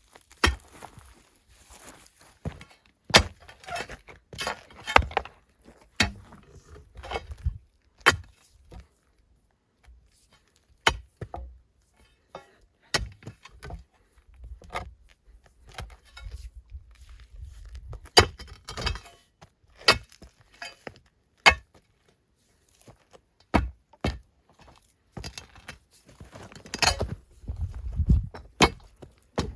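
Irregular sharp knocks and clinks, some in quick clusters with scraping or rustling between them.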